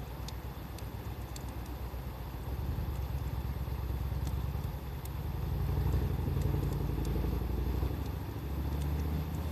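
Low engine rumble of a motor vehicle running nearby, swelling about halfway through and again near the end, over a few faint crackles from a wood fire.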